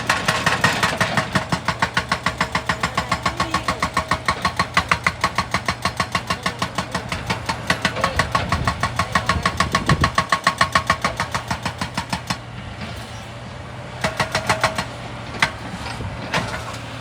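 Excavator-mounted hydraulic rock breaker hammering rock in a rapid, even run of several blows a second, over the machine's engine. The hammering stops about twelve seconds in, then comes back in two short bursts near the end.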